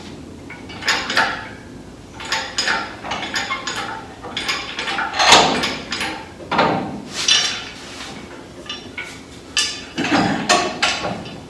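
Irregular metal clanks, knocks and rattles as an engine is pulled back out of the pickup's engine bay. The loudest clank comes about five seconds in.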